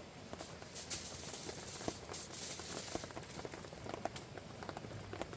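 Rain pattering: irregular drops tapping over a steady hiss, with the hiss growing heavier from about half a second in to about three seconds in.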